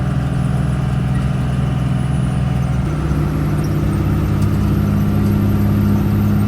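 5.9-litre Cummins-built diesel of a Dodge W600 Power Wagon tow truck running steadily under load while towing, its note shifting slightly about three seconds in.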